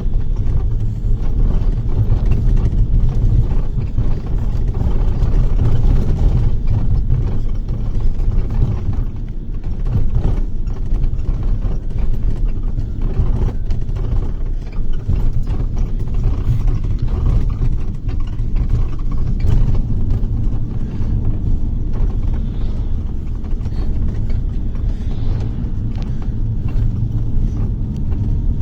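Bus running on the road, heard from inside the cabin: a steady low rumble of engine and tyres, with frequent knocks and rattles from the bodywork.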